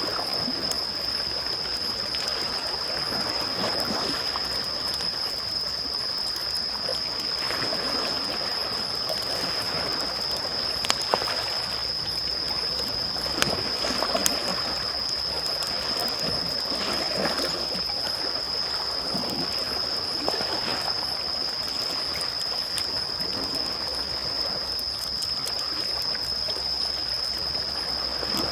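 Small waves lapping and washing on the shore in slow surges, with a crackling wood campfire that gives a few sharp pops about 11 and 14 seconds in. A steady high-pitched whine runs underneath.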